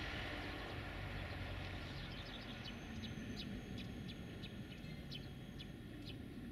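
A bird chirping, a series of short high notes about two seconds in, over a low steady rumble of outdoor background.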